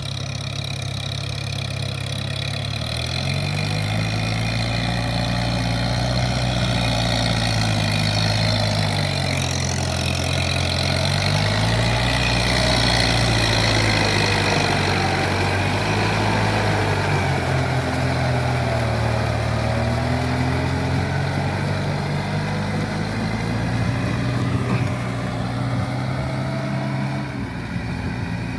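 Kubota M7040SU tractor's diesel engine running steadily while ploughing a rice field, its engine speed rising and falling slowly several times.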